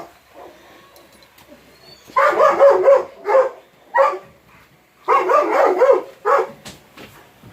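Dog barking in short runs: a quick string of barks about two seconds in, two single barks, then another string about five seconds in.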